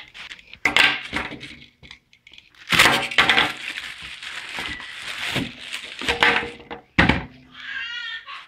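Packaging being handled while a shipping box of lubricant containers is unpacked: irregular rustling and scraping with sharp knocks and clinks.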